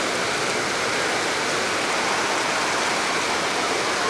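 Heavy rain pouring down hard, a steady, dense hiss.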